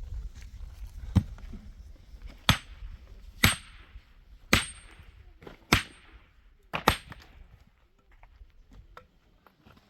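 Six hard, sharp strikes about a second apart, each with a brief clanging ring, like blows of a hand tool on a hard surface.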